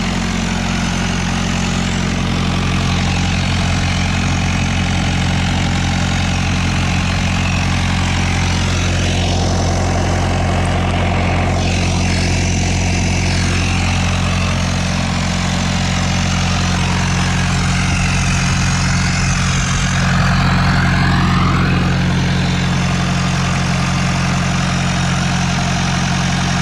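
Large engine idling steadily at an even speed.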